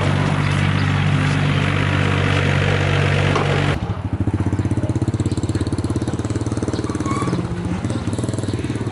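An engine running: a steady, even hum for the first few seconds, then after a sudden cut an idle with a clear, fast, regular pulsing beat.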